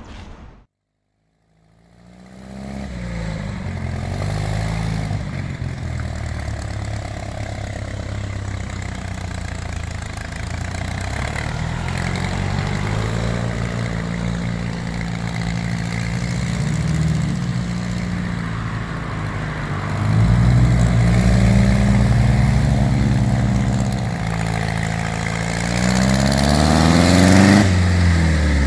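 The mini rail dragster's 3.0-litre GM engine, breathing through a custom log intake and carburettors, running and revving, its pitch rising and falling over and over. It gets louder about two-thirds of the way in and climbs steadily before dropping sharply near the end. The builder says the carbs need smaller jets.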